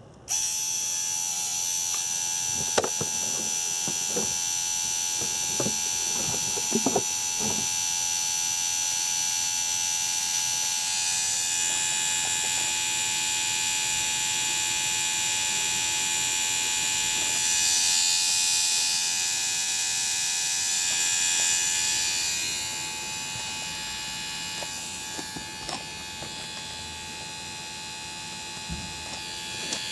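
Small electric motor switched on and whirring steadily with a high-pitched hum, with a few clicks in the first several seconds; it runs a little quieter after about 22 seconds.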